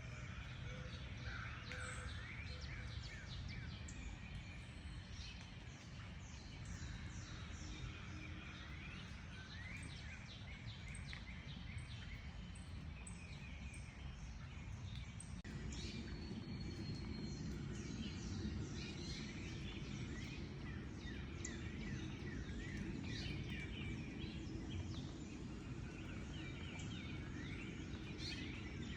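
Several wild birds chirping and calling over and over, with short quick notes and rising and falling whistles, over a steady low rumble of background noise that grows fuller about halfway through.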